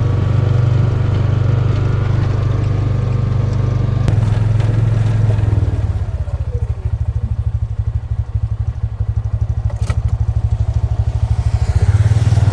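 An engine running with a steady low hum, settling about halfway into a fast, even low throb, with a single sharp click near the end.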